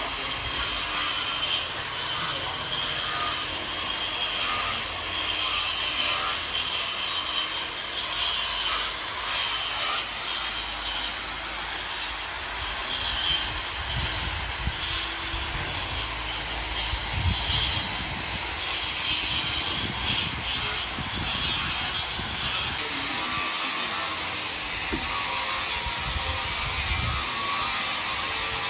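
A power tool running steadily on the stone deck, a rasping sanding noise with a faint high whine, typical of sanding the coralina tiles.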